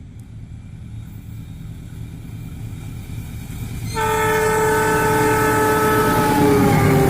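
KAI CC206 diesel-electric locomotive approaching at speed, its low rumble growing louder, then sounding a long horn blast about four seconds in. Near the end the horn's pitch drops as the locomotive passes.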